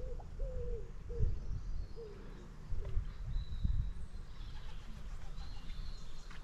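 A bird calling in a run of short gliding notes over the first three seconds or so, over a low gusty rumble.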